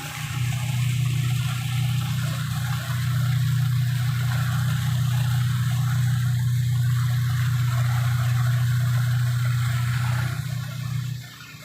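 Ferry engine droning steadily, with water rushing along the hull; the drone drops away briefly near the end.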